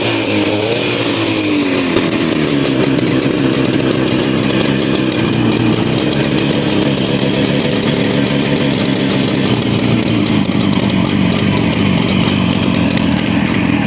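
1933 DKW 500 motorcycle's two-stroke twin engine running, its revs dropping back in the first second before it settles into a steady idle.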